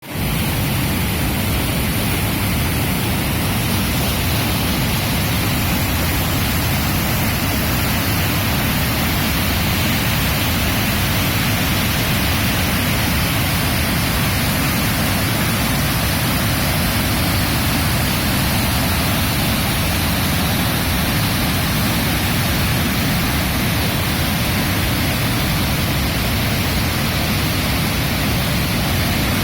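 Waterfall pouring, a loud, steady rush of water with no change.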